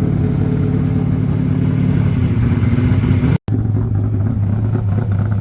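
Ford Falcon XD V8 race car engine idling with a steady low beat; the sound drops out for an instant about three and a half seconds in, then the idle carries on.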